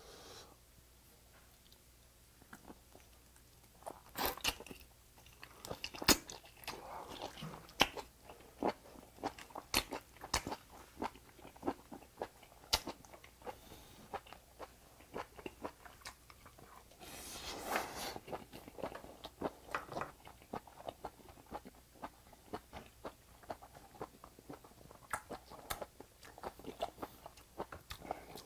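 Close-up mouth sounds of a person eating grilled small octopus off a skewer: wet smacks, bites and chewing clicks that start a few seconds in and keep going, with a longer, louder stretch about seventeen seconds in.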